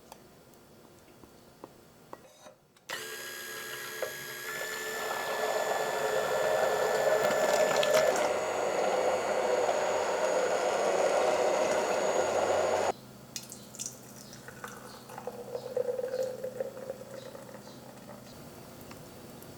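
A small electric motor running for about ten seconds with a steady whine over a rushing hiss, switching on and off abruptly, followed by a few light clicks.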